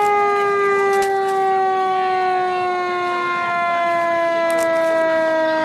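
Fire truck siren sounding one long tone that slides slowly and steadily lower in pitch as it winds down.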